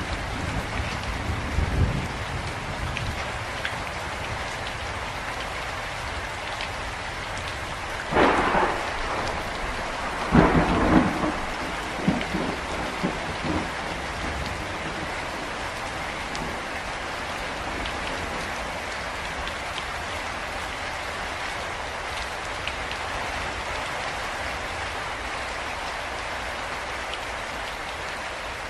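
Steady, heavy rain falling, with thunder: a low rumble in the first couple of seconds, then two loud cracks about eight and eleven seconds in, the second one rolling on for a few seconds.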